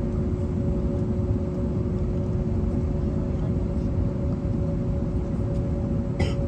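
Steady noise aboard an Airbus A321neo: a low rumble under a constant hum, with a single click about six seconds in.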